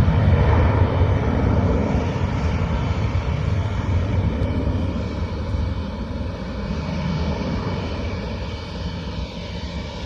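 Airbus A330-300 jet airliner climbing away after takeoff, its engines' deep rumble slowly fading.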